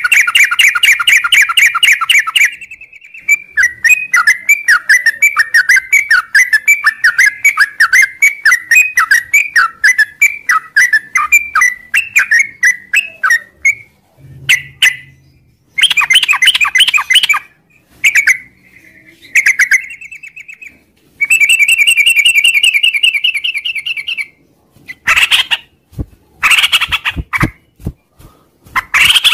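Yellow-vented bulbul (trucuk) singing loudly in long runs of rapid sliding, chattering notes, broken by a few short pauses.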